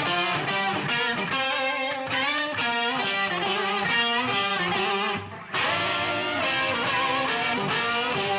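Rock music: distorted electric guitar playing a riff, with a brief break about five seconds in.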